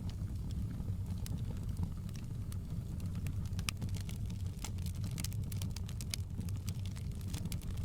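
Wood fire crackling: frequent sharp pops and snaps at irregular moments over a steady low rumble.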